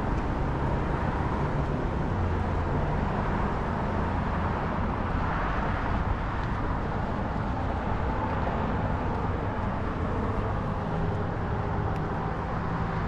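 Steady outdoor motor-vehicle noise, with a low engine hum that shifts in pitch, from road traffic.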